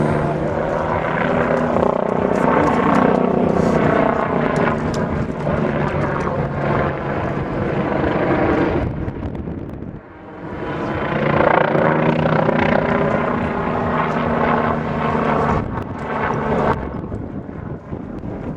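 MBB Bo 105 twin-turbine helicopter flying a display, its rotor and turbines running steadily. The sound fades sharply about halfway through, then swells back up.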